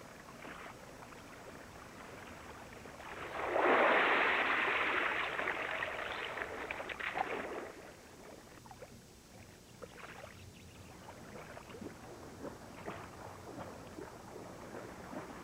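Water splashing and sloshing, with a louder rush of churned water for several seconds in the middle, then quieter lapping and small drips.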